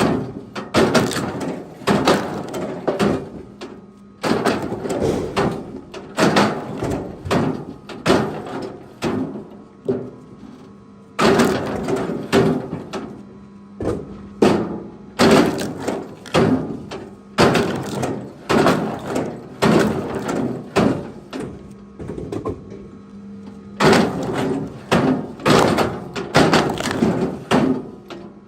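Pieces of firewood knocking and clattering against wood, one after another about once a second, with a faint steady hum underneath.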